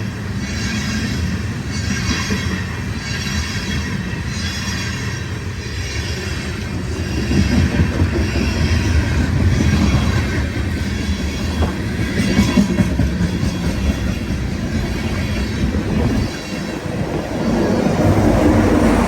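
A loaded BNSF unit train of tank cars rolling past: a steady rumble of steel wheels on rail, with some high wheel squeal and a faint pulse about once a second in the first few seconds.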